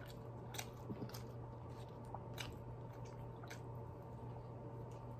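Close-up chewing of battered fried fish, with soft mouth clicks every second or so over a steady low hum.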